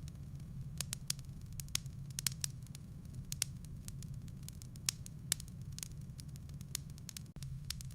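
Wood fire burning in a fireplace, with irregular crackles and snaps from the logs over a low steady hum.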